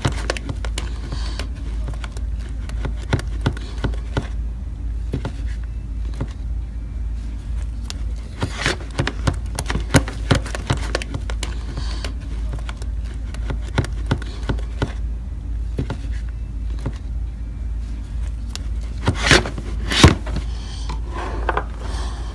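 Slime being mixed and worked by hand, making a steady run of short sticky clicks and squelches, with a couple of louder snaps near the end.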